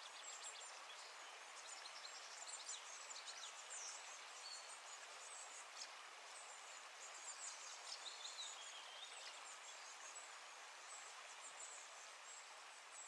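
Faint outdoor ambience with small birds chirping: many brief, high chirps and short whistled glides over a soft, steady hiss.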